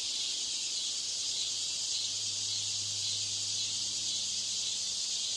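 Steady high-pitched hiss with a faint low hum coming in about two seconds in: noise laid over the test recording to imitate a poor exam-room broadcast system.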